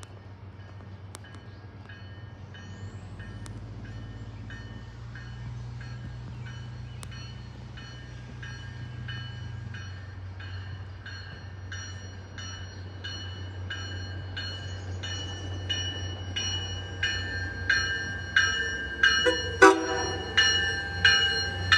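Grade-crossing warning bell ringing steadily, about one and a half strikes a second, over the low steady rumble of an approaching commuter train, both growing louder. A short horn blast comes about twenty seconds in.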